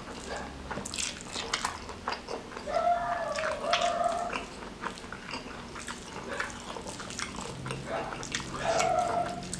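Close-miked mouth sounds of a man eating rice and noodles by hand: wet chewing, smacking and small clicks. Twice a drawn-out high-pitched hum, about three seconds in and again near the end.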